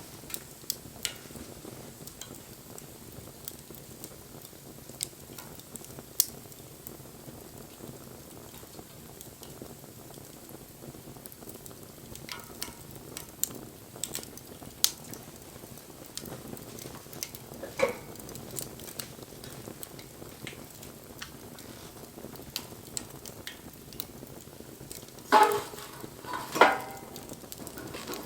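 Wood fire crackling: a low steady hiss with scattered sharp pops, and two louder ringing cracks near the end.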